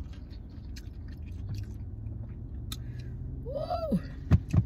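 A person chewing a mouthful of sushi roll with wet, clicking mouth sounds, then a short rising-and-falling hum about three and a half seconds in. Two sharp knocks near the end are the loudest sounds.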